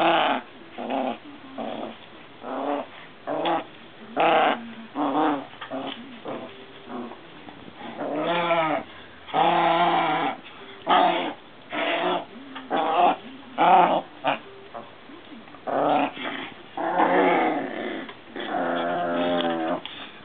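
Maltese puppies making play noises: many short growls and yips, with a few longer wavering growls.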